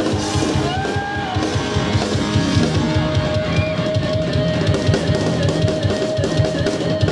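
Live rock band playing an instrumental passage: rapid drum-kit beats with bass drum and guitar, and a held note from about three seconds in.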